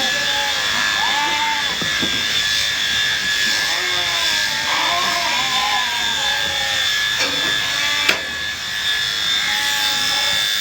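Electric sheep shears running with a steady high whine, and a sharp click about eight seconds in.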